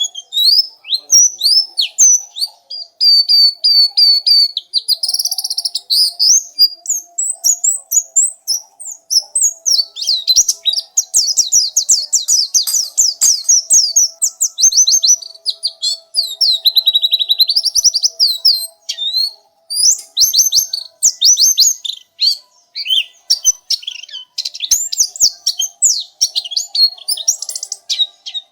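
White-eye (pleci) singing a long, fast run of high chirps, trills and sweeping notes with hardly a pause.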